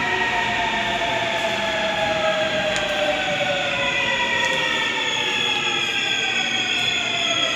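Seoul Metro Line 7 electric subway train's traction motors whining under wheel and track rumble, several tones sliding steadily down in pitch as the train slows.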